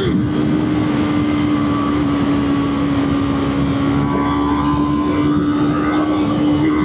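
Motorcycle engine running at a steady speed, its note holding almost level, with wind rushing over the microphone.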